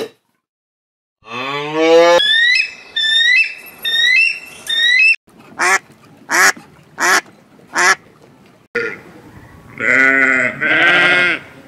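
A sequence of different animal calls: a pitched call about a second in, then a run of quick rising chirps, four short separate calls, and a longer pitched call near the end.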